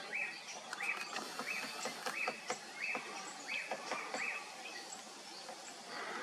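A bird calling over and over, the same short note about every two-thirds of a second, about seven times, then stopping about four and a half seconds in.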